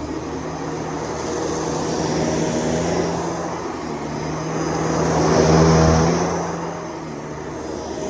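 Vacuum cleaner motor running with a steady hum, swelling louder about five seconds in and then easing back.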